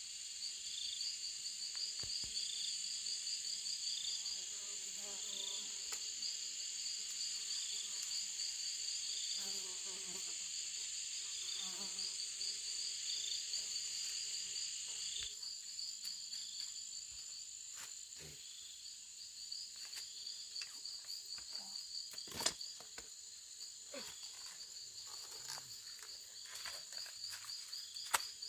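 Insects calling in chorus: a steady high buzz over a fast pulsing trill, with a short chirp about once a second. About halfway through the sound shifts and the chirps thin out, and a couple of sharp knocks come near the end.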